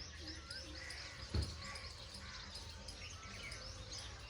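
Small birds chirping and calling over a low steady rumble, with one dull thump about a second and a half in.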